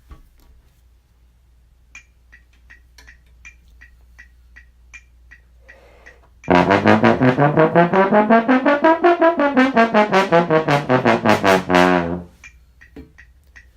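Brass instrument played loudly: a fast run of tongued notes that climbs in pitch and comes back down, lasting about five and a half seconds. It comes after several seconds of faint, evenly spaced ticking.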